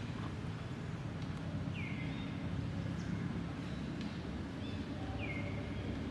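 An animal's short, falling, whistle-like call, heard twice about three and a half seconds apart, over a steady low rumble.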